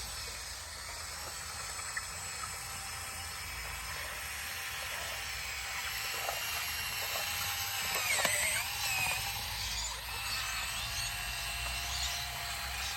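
Bulldozer working, a low engine rumble under many high squeaks and squeals of metal that bend up and down in pitch, loudest about eight seconds in.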